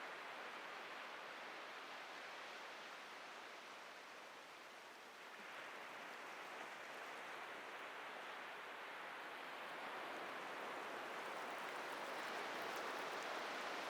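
Atlantic ocean surf washing onto the beach: a steady hiss that eases off about four seconds in, then swells again toward the end.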